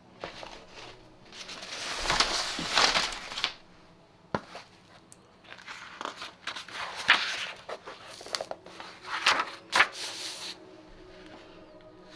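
Close rustling and crinkling of paper being handled, in two spells, the second longer, with several sharp clicks and taps among them.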